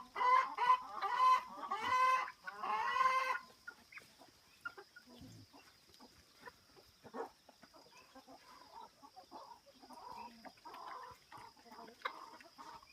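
Bantam chickens clucking: a fast run of short repeated calls for about the first three seconds, then only faint scattered clucks over a steady faint high tone.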